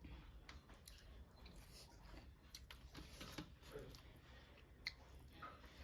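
Quiet chewing of duck curry, with soft, irregular mouth clicks and lip smacks.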